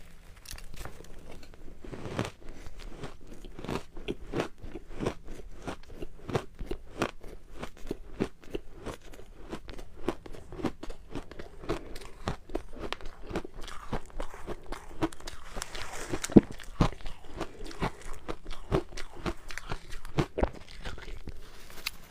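Purple-coloured ice being bitten and chewed close to the microphone: a dense run of sharp, irregular crunches, several a second, with one loudest crack about 16 seconds in.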